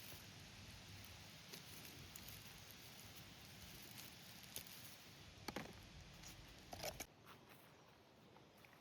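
Faint, quiet background hiss with a few soft clicks and rustles past the middle. The background drops away abruptly near the end.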